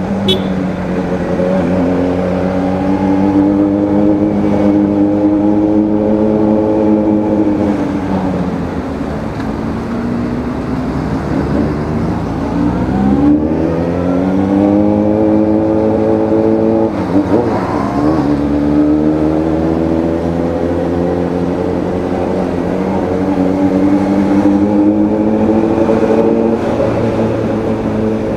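Suzuki Bandit motorcycle's inline-four engine under way while riding. It revs up through the gears several times, holds steady between rises and eases off once about eight seconds in.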